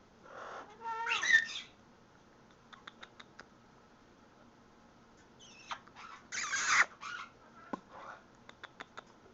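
Timneh African grey parrot calling: two loud calls with gliding pitch, one about a second in and another about six seconds in, with a few faint short clicks between them.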